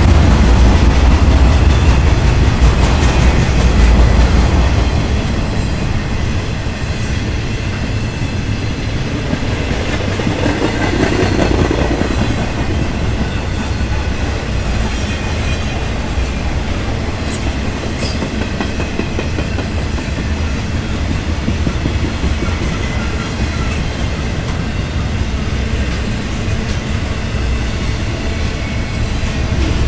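Intermodal freight train's cars rolling past with a steady rumble of steel wheels on rail, a little louder in the first few seconds before easing.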